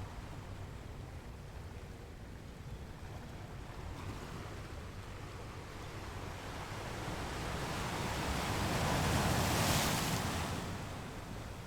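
Ocean surf on a beach: a steady low rumble of waves, with one wave building from about halfway through, breaking loudest near the end and then fading away.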